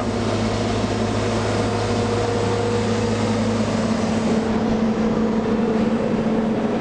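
Diesel engine of a JCB JS220 tracked excavator running at a steady pitch, a constant hum.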